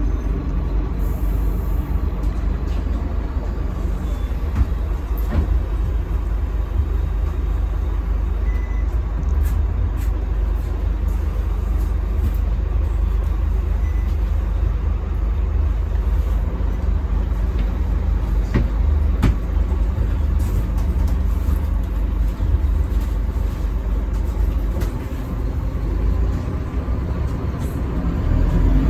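Scania K310UB city bus running on the road, its five-cylinder diesel giving a steady low rumble, with scattered short clicks and rattles. The rumble eases briefly near the end.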